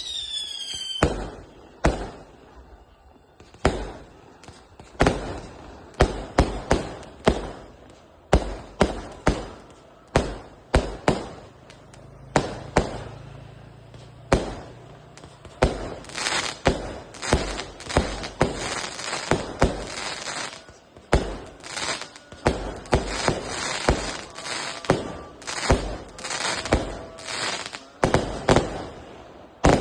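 A 100-shot firework cake firing its shots in a long volley of sharp bangs and thumps, with a falling whistle in the first second. The shots come about one or two a second at first and crowd much closer together in the second half.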